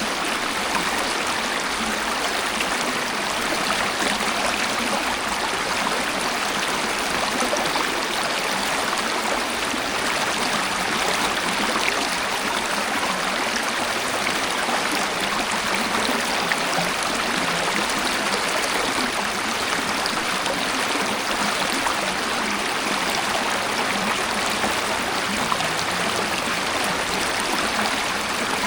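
Waterfall or fast stream of water rushing and splashing steadily, an even hiss without pauses or changes.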